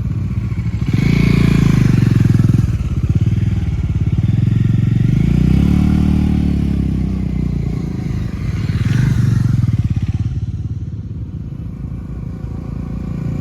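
Motorcycle engine running with dense, even firing pulses, revving up and swelling in loudness three times: about a second in, again around six seconds, and near nine seconds, then easing off toward the end.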